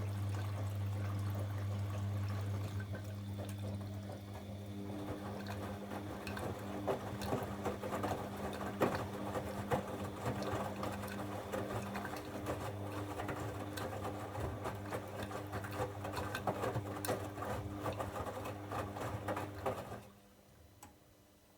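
Bosch Avantixx washing machine's pump humming steadily while water gurgles and splashes through it. The hum and water noise cut off suddenly about 20 seconds in.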